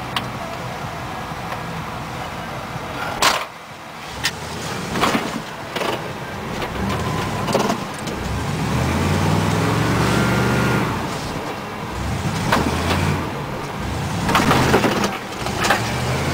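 A 1960s Fargo truck's engine pulling through deep snow, revving up in pitch about halfway through and easing off again. Sharp knocks and rattles from the truck jolting come through at intervals.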